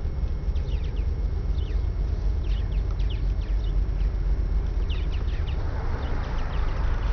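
Birds chirping in many short, falling calls over a steady low rumble, with a hiss growing louder in the last second or so.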